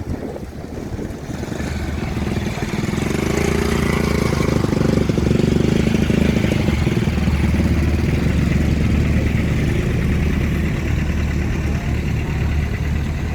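A motor vehicle's engine running close by, getting louder about two to four seconds in and then holding steady.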